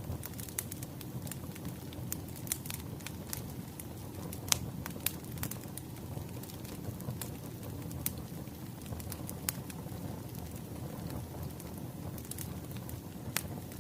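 Wood fire crackling, with irregular sharp pops over a steady low rumble of burning logs; the sharpest pop comes about four and a half seconds in.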